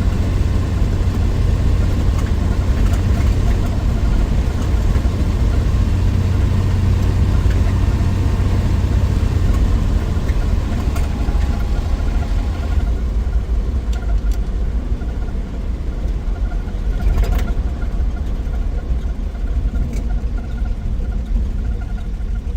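1963 Willys Wagon on the road, its 230 Tornado overhead-cam straight-six running steadily with a deep rumble and road noise. About halfway through, the higher hiss drops away while the low rumble carries on.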